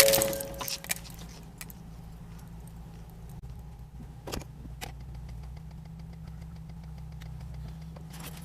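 Tail end of a car collision, with noisy clatter dying away over the first second, followed by a steady low hum of a car's engine and road noise, with a few faint clicks.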